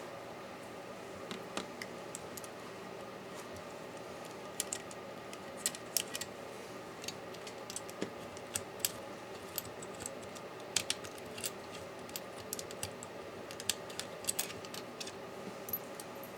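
Irregular light clicks and taps of small tools and parts being handled while a MacBook Pro laptop is taken apart, over a steady low hum.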